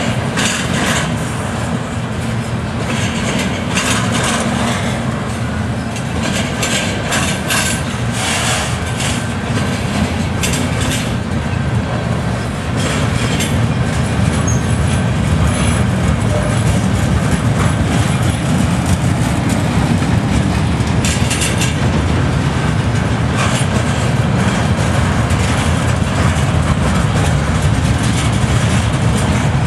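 Freight train's bulkhead flatcars rolling past close by: a steady rumble of steel wheels on the rails with repeated clacks and metallic knocks. It gets louder about 13 seconds in.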